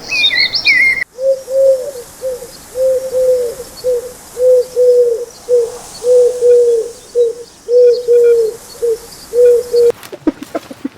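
A pigeon cooing over and over, short low coos about two a second. High bird chirps come before it for the first second, and a patter of clicks starts near the end.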